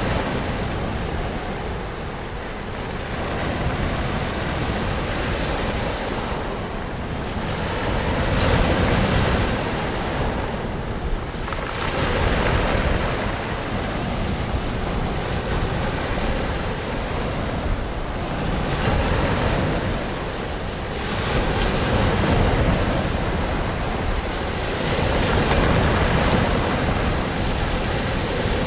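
Ocean waves breaking and washing in continuously, swelling and easing every few seconds.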